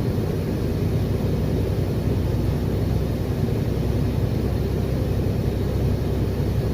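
Steady low rumble of a tractor-trailer rig driving, with engine and road noise heard from inside the cab.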